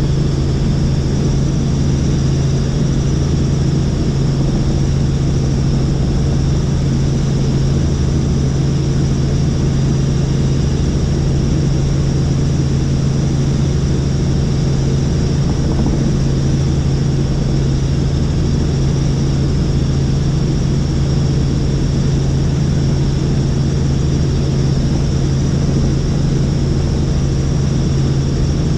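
Helicopter in cruising flight: loud, steady rotor and engine noise, a constant low hum with a thin high whine above it.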